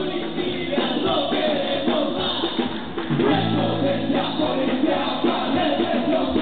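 Live band music with singing, recorded loud from within the audience.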